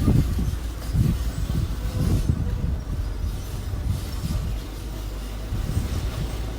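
Heavy machinery running with a steady low diesel rumble, with irregular heavier low surges in the first couple of seconds.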